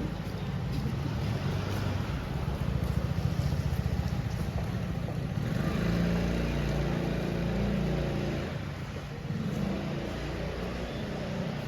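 City street traffic: a motor vehicle's engine running close by, with a low rumble that swells about six seconds in and eases off a little before the end.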